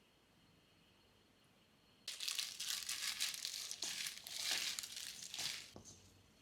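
Crinkling and crumpling of a thin, crackly material, like packaging being handled. It starts suddenly about two seconds in and goes on busily for about four seconds, then dies away to a few light taps.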